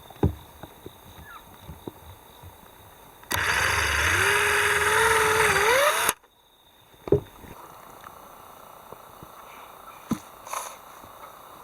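A small engine runs loudly for about three seconds, its pitch climbing near the end, then cuts off suddenly. A few light knocks and clicks come before and after it.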